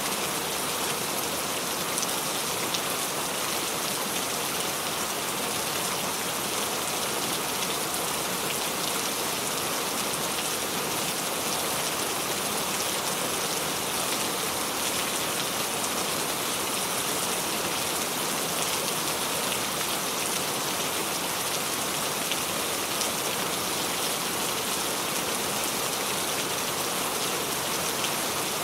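Steady rain falling, a constant dense patter of drops with occasional faint individual drop ticks.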